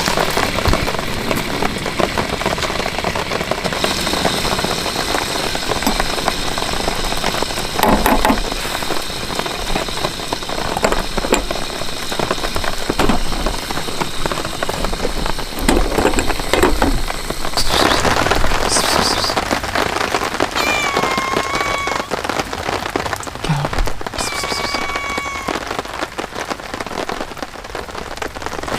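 Heavy rain falling steadily, with scattered sharper drop hits. A brief whistle-like tone sounds twice, about two-thirds of the way through.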